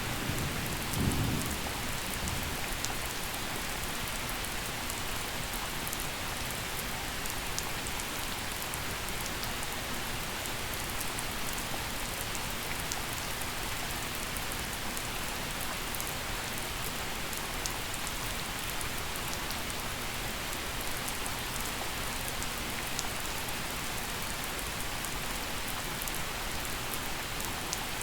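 Steady gentle rain falling, an even hiss scattered with small drop ticks. The last of a thunder rumble dies away in the first second or two.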